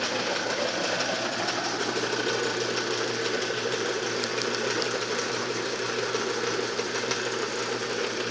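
Homemade can crusher running steadily on its electric motors, cogged V-belts turning, giving an even mechanical hum with a fast light ticking over it.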